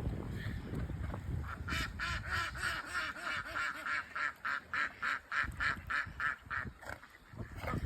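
A duck quacking in a long, even series of about three quacks a second that lasts several seconds, with light wind noise at the start.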